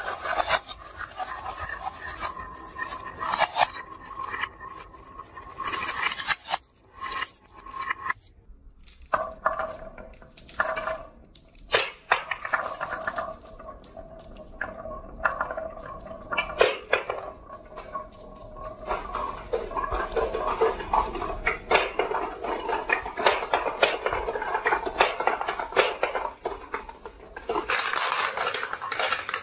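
Marbles rolling and clattering down a wooden marble run, with many sharp clicks and clacks as they drop and knock against the tracks and each other, and a dense rolling rattle in the second half.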